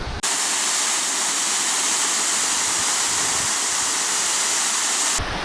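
Waterfall rushing: a steady, even hiss of falling water that cuts in just after the start and cuts off abruptly near the end.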